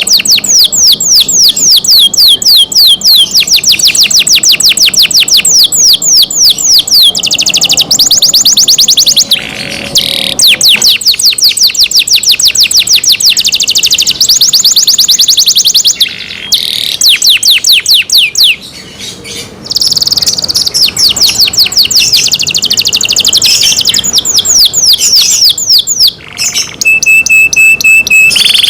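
Domestic canary singing loudly: fast trills of rapidly repeated sweeping notes, one trill pattern giving way to the next with brief pauses between phrases, and a short steady whistled note near the end.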